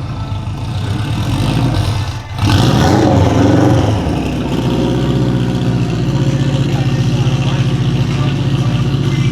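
Subaru EJ205 flat-four engine of a Saker RapX race car running, with a brief dip about two seconds in, then a rev that rises in pitch before it settles back into steady running.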